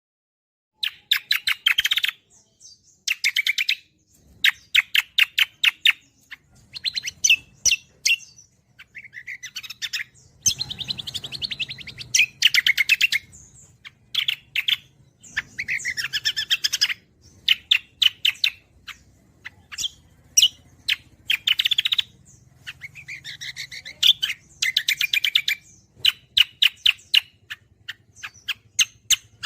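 Cucak songbirds singing steadily in bursts of rapid, repeated chirping notes, each burst a second or two long with short gaps, starting about a second in.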